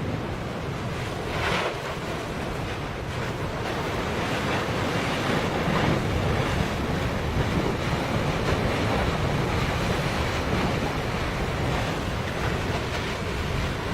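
Steady rushing noise of stormy wind and water, with wind buffeting the microphone and a brief louder rush about a second and a half in.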